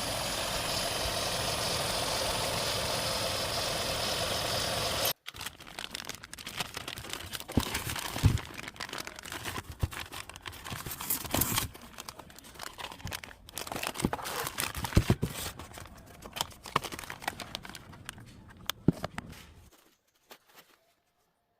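Hyundai i20 N engine running steadily for about five seconds, then cut off abruptly. After that come scattered clicks, knocks and rustling of hand work, irregular and uneven in loudness, fading to near silence near the end.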